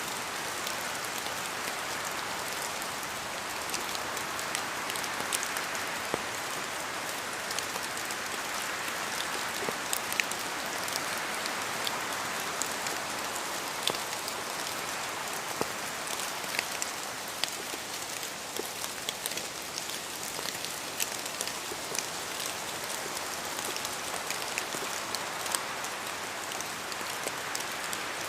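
Steady rainfall, a constant hiss with many individual drops ticking sharply on a surface.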